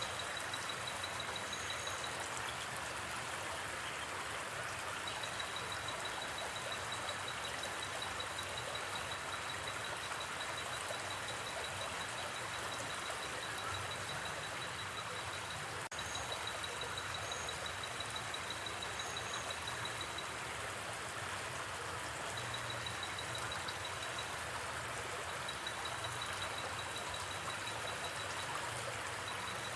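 Steady rush of a gently flowing river, with a night insect trilling in long runs of rapid, high-pitched pulses that break off and start again.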